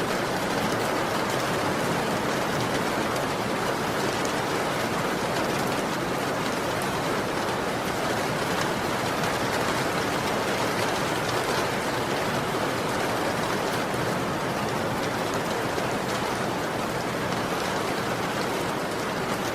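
Heavy rain falling steadily, an even hiss with no thunder and no rise or fall.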